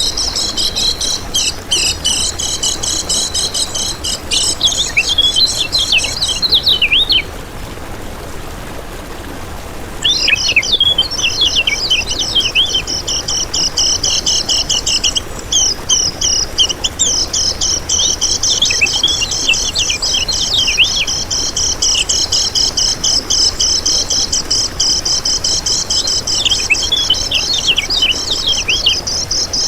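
Kecial kuning singing a fast, high, continuous twittering song. The song breaks off about seven seconds in and starts again about three seconds later.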